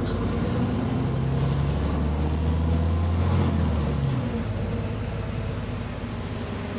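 Bus engine pulling hard, its note strong for about four seconds and then easing off; the bus has an exhaust leak.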